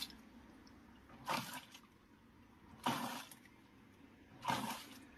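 Top-loading washing machine's pulsator agitating the water in the drum, a watery swish about every one and a half seconds as it turns one way and then the other. The forward and reverse agitation are working normally.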